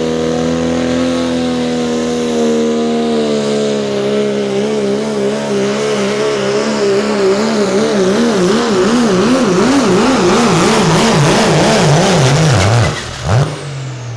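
Diesel pulling truck's engine running flat out under load, its pitch at first steady, then wobbling up and down about three times a second with growing swings. Near the end the engine note drops away abruptly, followed by one short blip of throttle.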